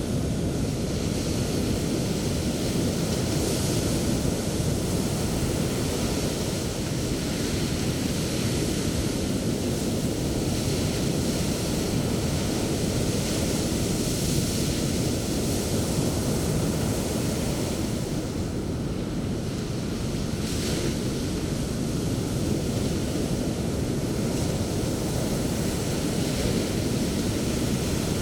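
Sea surf on a beach: a steady rushing wash of waves, with the hiss of breaking waves swelling now and then, about four seconds in, midway and again about twenty seconds in.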